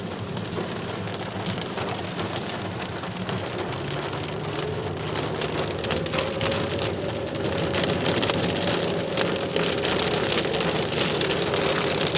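Heavy rain falling, with many sharp drops striking a surface, growing louder and denser over the second half. A faint steady hum joins about four seconds in.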